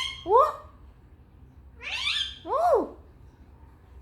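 Talking parrot calling twice. Each call is a short rising screechy note followed by a clear 'oh' whose pitch rises and falls.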